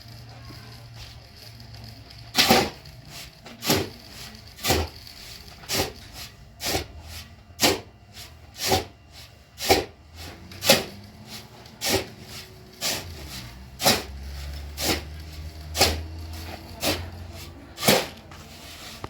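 Repeated sharp knocks, about one a second, starting a couple of seconds in, with lighter knocks between them and a low hum underneath.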